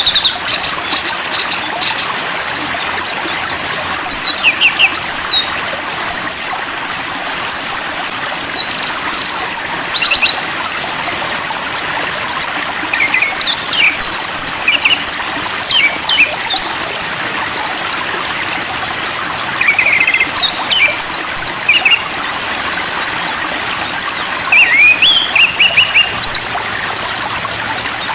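A songbird singing in bursts of varied whistled phrases with rising and falling glides, separated by short pauses, over a steady hiss.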